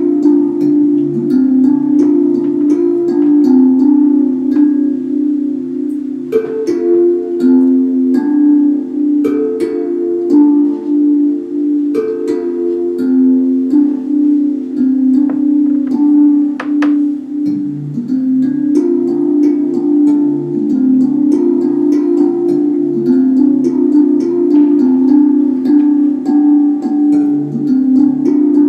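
Steel tongue drum cut from a propane tank (a Moyo drum) being played by hand: a steady flow of overlapping ringing notes in a repeating melodic pattern, with lower notes pulsing regularly underneath.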